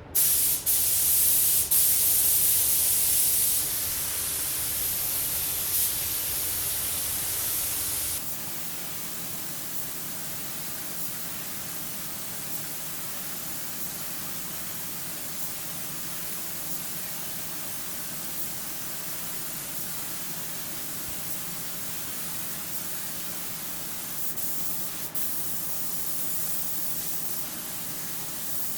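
Air spray gun hissing as it lays on a sixth coat of paint thinned a little more than usual, loudest over the first few seconds with brief breaks between passes, then settling to a quieter, steady hiss.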